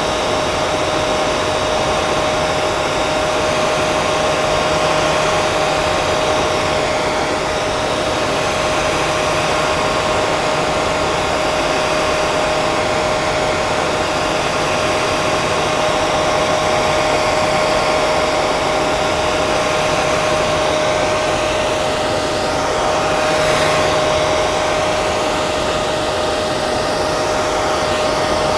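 Hair dryer running steadily on one setting: an even rush of blown air with a steady motor whine.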